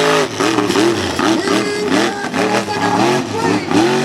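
Mega truck engine revving up and down in quick repeated surges, about three a second, as the throttle is pumped hard during a freestyle run.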